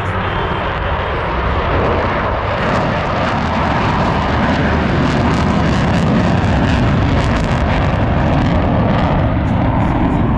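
Blue Angels F/A-18 Super Hornet jet engines roaring past in a flyby, swelling over the first couple of seconds and then holding loud and steady, with a crackling edge.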